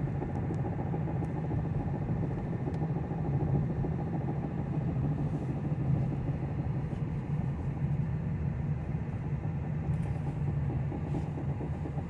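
2009 Pontiac G5 driving with a steady low rumble and faint, irregular knocking from a wheel, the sign of loose lug nuts.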